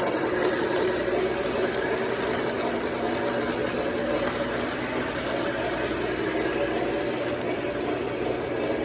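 Lionel O gauge Camelback No. 19 model steam locomotive running on the layout: a steady mechanical whir and rumble from its motor and the wheels on the track.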